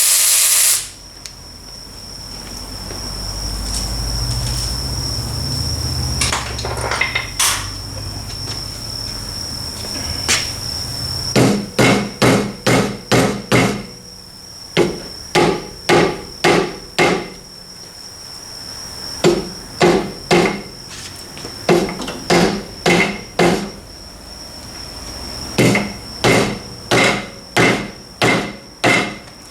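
Hammer blows on a metal part during a differential teardown, in five bursts of five or six strikes about two a second, each with a brief ring. A loud tool noise cuts off about a second in.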